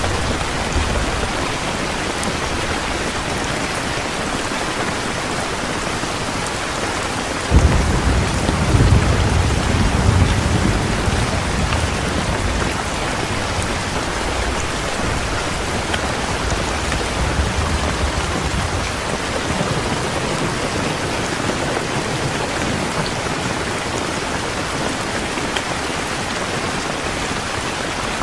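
Heavy rain falling steadily, with a roll of thunder that breaks suddenly about a quarter of the way in, rumbles deep for several seconds and slowly fades.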